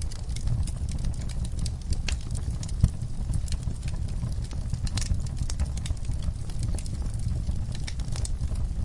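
Wood fire in a fireplace crackling: irregular snaps and pops over a steady low rumble of the flames, with one louder pop about three seconds in.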